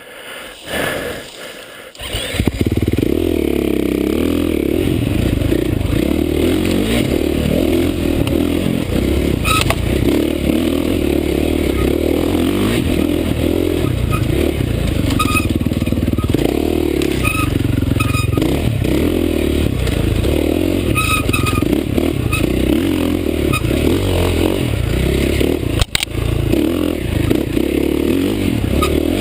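Dirt bike engine riding a forest trail, heard from a helmet camera, its revs rising and falling unevenly as the throttle is worked. It starts suddenly about two seconds in after a quieter moment, with small clatters from the bike over the rough ground.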